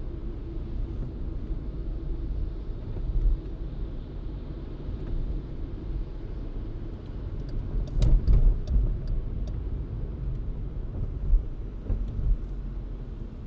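Car driving on city streets, a steady low rumble of road and tyre noise. About eight seconds in comes a quick cluster of clicks and knocks, with another single knock a few seconds later.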